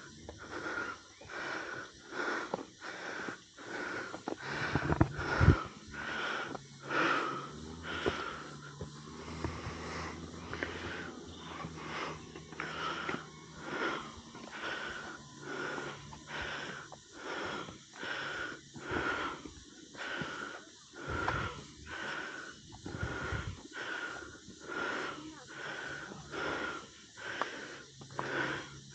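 A person panting hard, with fast, even, breathy breaths at about three every two seconds.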